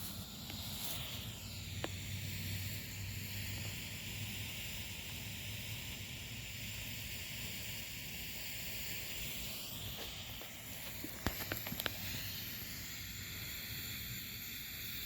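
Pull-string smoke grenade burning with a steady hiss as the smoke pours out. A few sharp clicks come about eleven seconds in.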